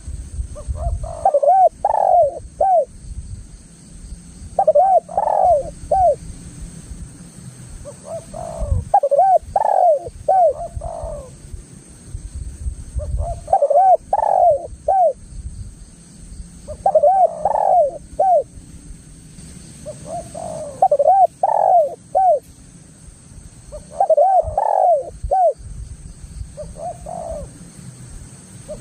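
Spotted dove (tekukur) singing: a phrase of several quick coos repeated about every three to four seconds, eight phrases in all, with a low rumble underneath.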